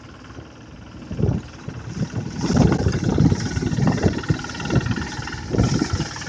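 Engine-driven rice thresher ('blower') running, its small engine humming steadily under irregular loud low surges and thumps from about a second in, with bursts of hiss in the middle and near the end.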